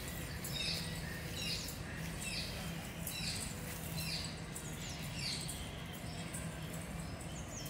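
A bird repeating a short, high, falling chirp about once a second, over a faint low steady hum.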